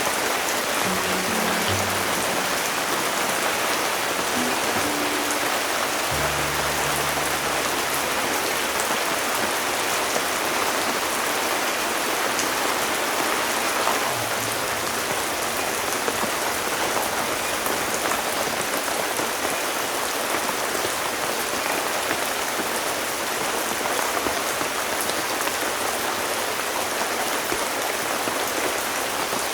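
Heavy rain falling steadily: a dense, even hiss. Soft low music notes sound under it during the first several seconds, then stop.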